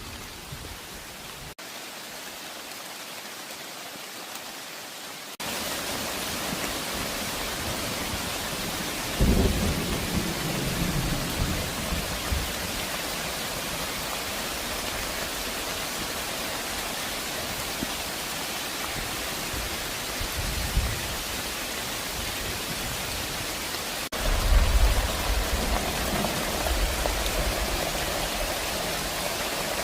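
Steady heavy rain, growing louder about five seconds in, with low rolls of thunder about nine seconds in, briefly around twenty seconds, and again near twenty-five seconds.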